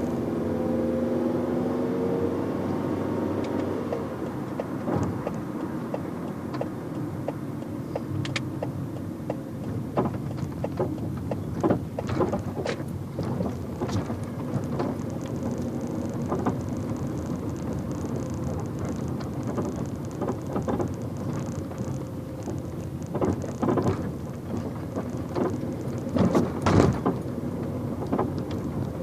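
Fiat Stilo 1.6 16v on the move: steady engine and road noise, with the engine note changing in the first few seconds, and irregular sharp knocks and clicks through the rest. This is the unexplained noise that the owner hears from the front of the car.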